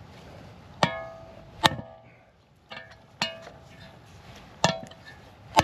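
Hammer blows on metal as a pressed-in front wheel bearing is driven into the steering knuckle without a press. Six sharp strikes at uneven intervals, each ringing briefly.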